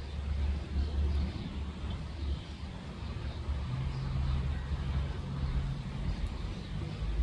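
Low engine rumble from a motor vehicle, with a steady low hum joining in about halfway through.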